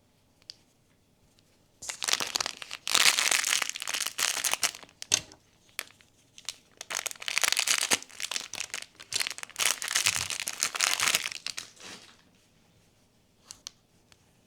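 Blind-box packaging crinkling and tearing in a run of bursts for about ten seconds, then two light clicks near the end.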